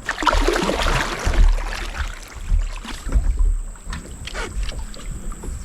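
Kayak paddle strokes splashing in river water, a loud run of splashes in the first two seconds, then lighter strokes.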